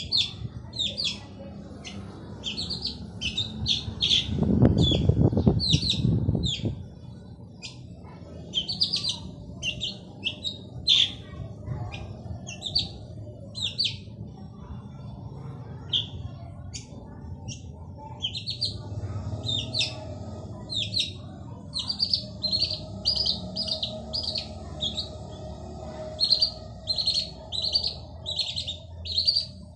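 Male long-tailed shrike calling in a fast series of short, sharp chirps, two or three a second, with a brief lull about halfway through. A low rumble comes in about four seconds in and lasts a couple of seconds.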